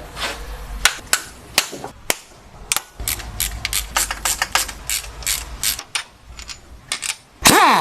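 Ratchet wrench clicking as the transmission-to-engine bolts are undone: a string of sharp clicks, spaced out at first and then quicker in the middle. A louder burst with a gliding pitch starts just before the end.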